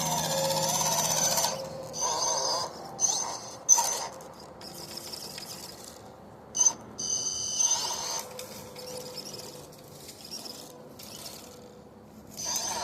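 RC crawler truck's electric motor whining in short throttle bursts that start and stop repeatedly, with a couple of sharp knocks.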